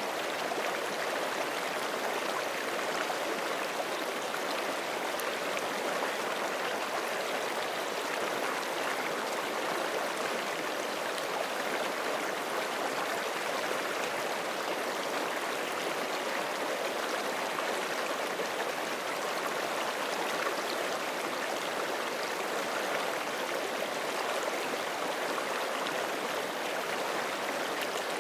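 Forest creek flowing, a steady, unbroken rush and babble of water.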